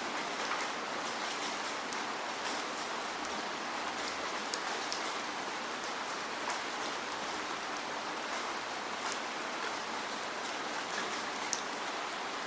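Steady rainfall: an even hiss of rain with many close drops ticking sharply on a surface.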